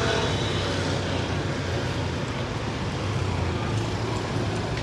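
Steady city street traffic: engines of passing vehicles running, with no single event standing out.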